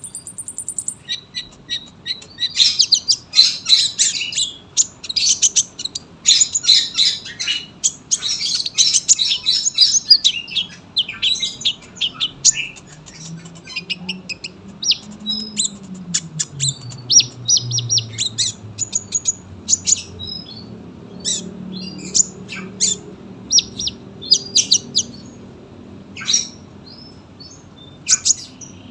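Olive-backed sunbird (kolibri ninja) singing: a dense run of rapid, high chirps and trills for several seconds, then sparser single chirps with short gaps.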